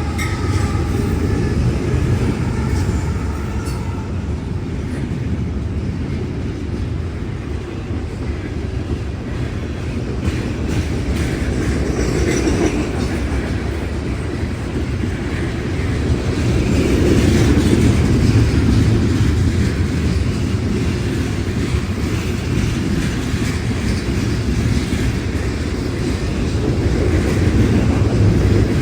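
A train rolling past: a steady, dense rumble of wheels on the rails that swells louder about two-thirds of the way through and again near the end.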